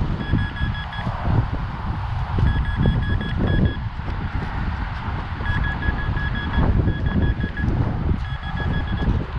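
Minelab Vanquish 440 metal detector beeping in five short bursts of rapid pulses, about six a second, at one steady pitch: it is still signalling a metal target in the hole. Wind rumbles on the microphone underneath.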